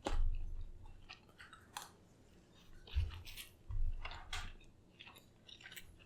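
A person chewing food close to the microphone, with irregular wet mouth clicks and smacks and a few dull low thumps.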